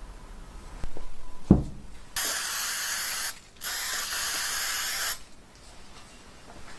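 Two long bursts of spray hiss, about a second and a second and a half, with a short break between them, preceded by a single knock.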